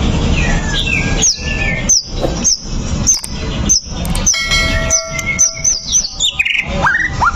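White-rumped shama (murai batu) singing: a run of quick, sharply falling whistled notes about twice a second, a few steady held whistles in the middle, and fast rising sweeps near the end.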